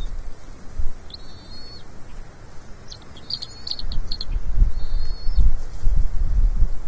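Bald eagles on the nest giving high, thin piping calls: three short bouts of a few notes each, the middle one a quick run of chirps. Uneven low rumbling noise runs underneath.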